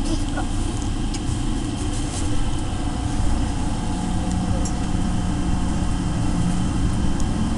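Rubber-tyred airport people-mover train running through an underground tunnel: a steady rumble of the car on its concrete guideway, with a steady low hum coming in about halfway through.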